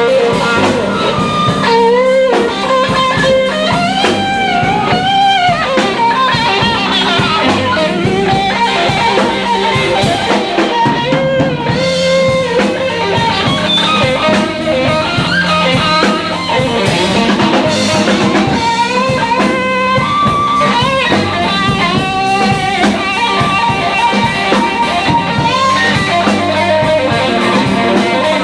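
Live blues band playing an instrumental passage of a slow blues: a lead guitar plays bending notes over drums and a steady low accompaniment.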